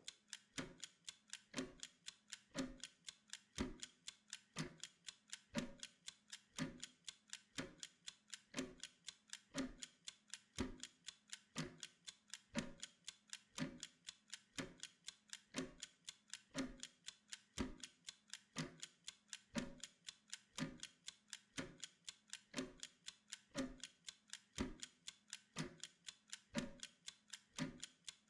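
Mechanical kitchen timer ticking steadily, with several quick ticks a second and a stronger tick about once a second.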